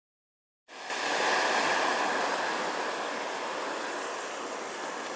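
Strong blizzard wind rushing steadily, starting abruptly about half a second in, with wind buffeting the microphone.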